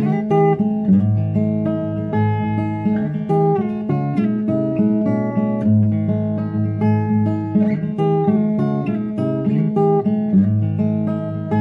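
Acoustic guitar playing an instrumental introduction, a steady rhythm of strummed and picked chords.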